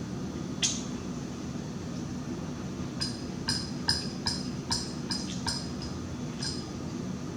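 Close-up chewing: a regular run of sharp, wet mouth clicks, about two or three a second, over a steady low hum.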